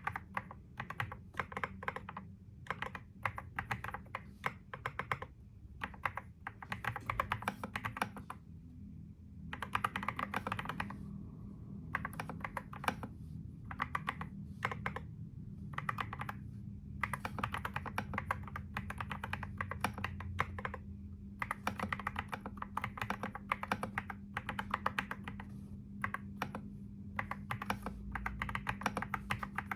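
Typing on a computer keyboard: rapid key clicks in bursts of a second or two with short pauses between, and a longer pause about eight seconds in, over a low steady hum.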